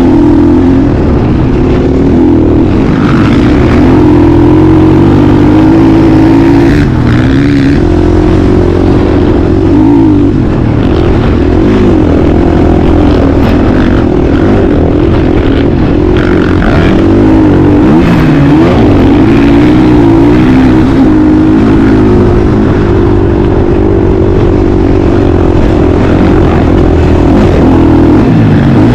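Motocross dirt bike engine running loud and continuous, its pitch rising and falling over and over as the throttle is worked.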